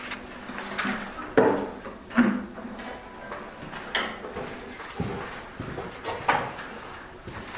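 A series of irregular knocks and clunks, about six spread over several seconds, like objects being moved and handled.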